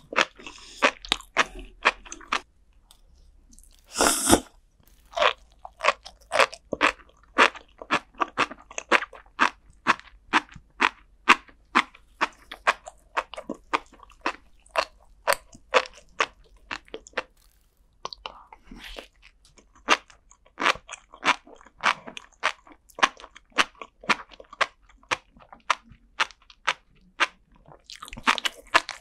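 Close-miked chewing of flying fish roe and sea grapes: a dense run of small sharp pops and crunches, about three or four a second, as the tiny eggs and grape-like beads burst between the teeth. A single louder, longer crunching bite comes about four seconds in, and the chewing pauses briefly near the start and again about two-thirds of the way through.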